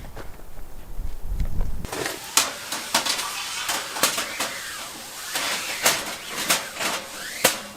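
Low wind rumble on the microphone that stops abruptly about two seconds in, followed by a run of sharp clinks and knocks of cookware being handled.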